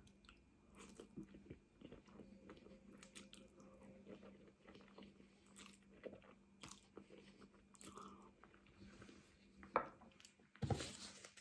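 Faint mouth sounds of a person chewing a mouthful of spaghetti bolognese: soft, wet clicks of the mouth. A short knock comes near the end.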